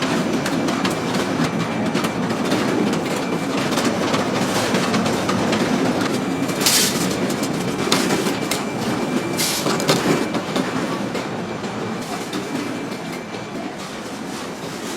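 Computerized sock-knitting machines running with a dense, steady mechanical clatter and a thin high whine, slowly getting quieter over the last few seconds.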